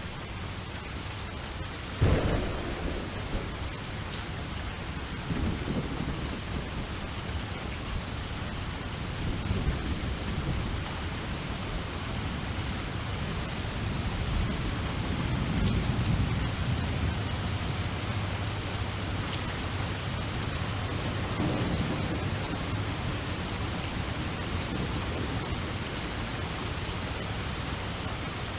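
Steady rain with thunder: a sharp thunderclap about two seconds in, followed by several low rolls of thunder through the rest of the stretch.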